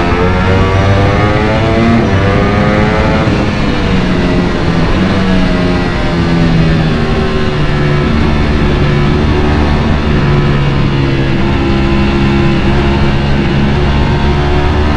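Ducati Panigale V4 motorcycle engine under way on a winding road: its pitch climbs over the first few seconds, drops back, then rises and falls in smaller swings as the throttle is worked through the bends.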